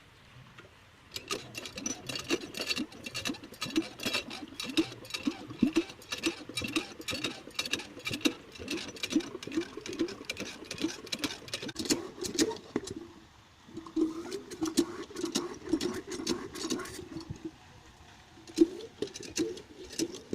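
Chinese diesel irrigation pump engine being turned over by hand without starting, a rhythmic clatter of about three to four clacks a second. It comes in three runs with short breaks between cranking efforts.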